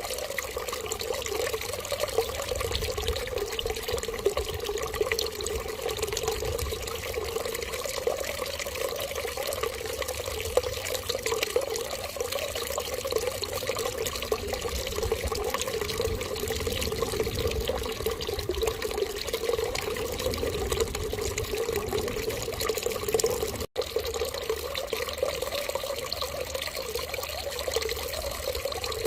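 Steady running water, like a tap left running, with an even rushing sound that holds without change. It cuts out for an instant about three-quarters of the way through.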